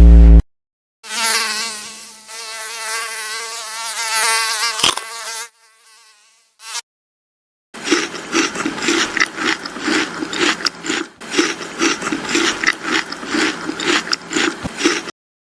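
Insect buzzing sound effects, as of a mosquito: first a thin whine that wavers up and down in pitch for a few seconds, then, after a short pause, a louder buzz that pulses about four times a second.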